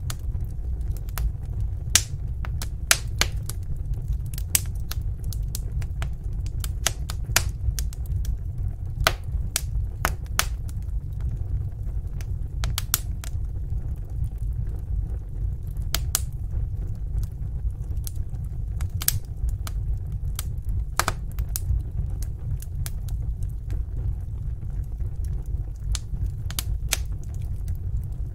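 Wood fire in a fireplace crackling: irregular sharp pops and snaps, a few much louder than the rest, over a steady low noise.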